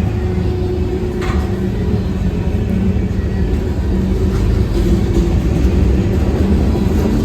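CSX freight train's diesel locomotives and cars running, a steady low rumble with a held engine drone and a short knock about a second in.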